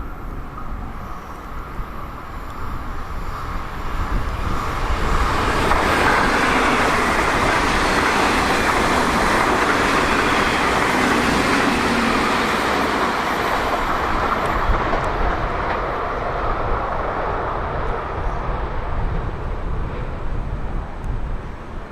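A train passing through the station: its running noise swells over a few seconds, holds, then slowly fades away.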